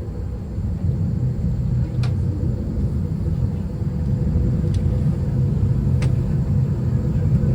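A vehicle running with a steady low rumble that grows slightly louder, and a few faint sharp clicks, three in all.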